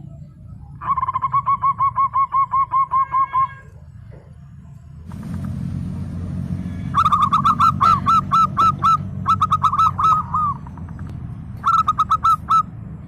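Zebra dove (perkutut) singing in three bouts of fast, evenly repeated cooing notes, about five a second, with a low steady hum beneath from about five seconds in.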